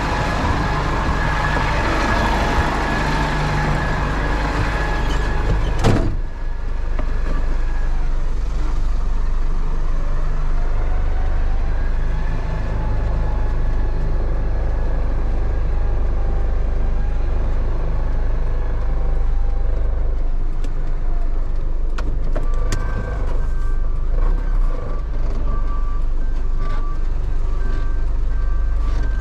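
Tow truck engine running steadily while the truck is repositioned, with one sharp knock about six seconds in. From about three-quarters of the way through, the truck's reversing alarm beeps at an even pace.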